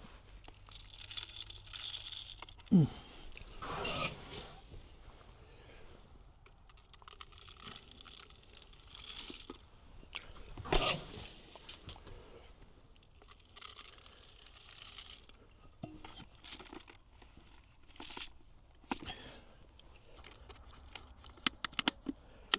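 Black oil sunflower seeds being poured from a bag into a plastic lantern bird feeder: several stretches of rustling, pattering seed, with the bag crinkling and a few sharp crackles in between.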